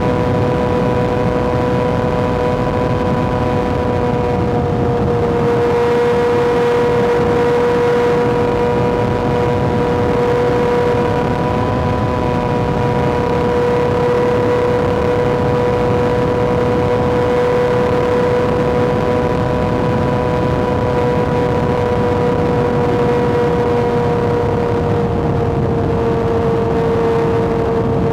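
Kawasaki ZX-6R inline-four engine under way, its note held at a nearly steady high pitch with only slight dips, over a steady rushing noise.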